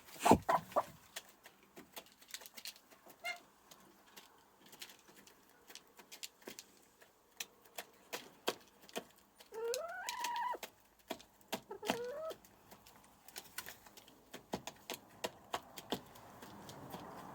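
Chickens in a henhouse: scattered light clicks and taps throughout, a few sharper knocks right at the start, and a hen giving two rising calls about ten and twelve seconds in.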